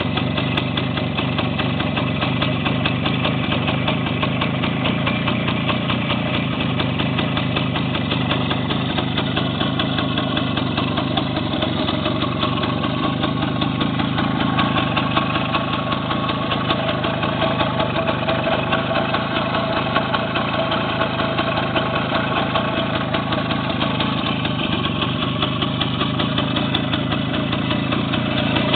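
A 1966 Kovrovets motorcycle's single-cylinder two-stroke engine idling steadily.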